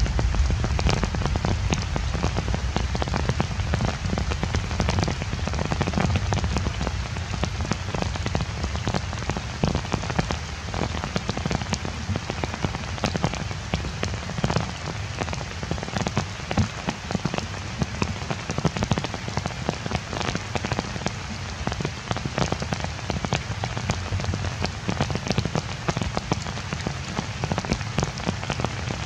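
Heavy rain falling on forest leaves: a steady hiss dense with the ticks of individual drops.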